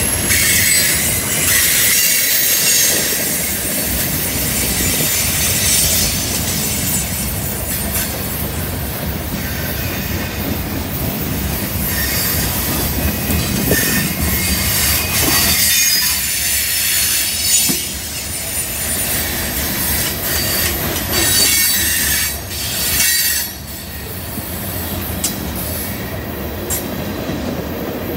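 Freight train cars rolling past close by on a curve: steel wheels squealing high against the rail over a steady low rumble, with scattered clicks from the wheels on the track.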